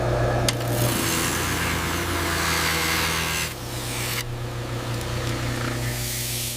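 A power tool running steadily: a low hum under a loud hiss, which changes and eases slightly about three and a half seconds in.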